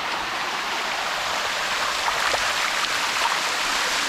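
Water rushing steadily down the limestone cascade of a waterfall, a continuous hiss, with a brief click about two seconds in.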